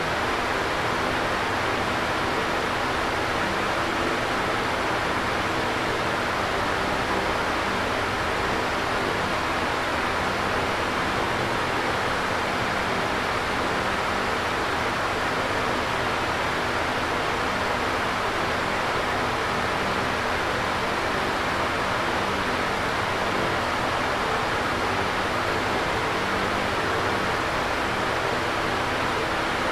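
Electric fan running steadily: an even rushing of moving air, with faint steady low tones beneath it.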